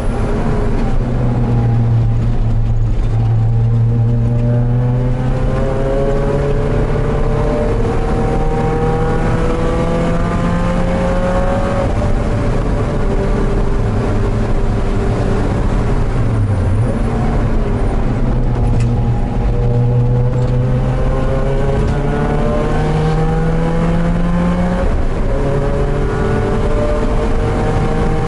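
Porsche 968's four-cylinder engine under racing load, heard from inside the cockpit: its pitch climbs steadily as the car accelerates and drops back at each gear change, several times over, with one sharp dip and recovery about two-thirds through.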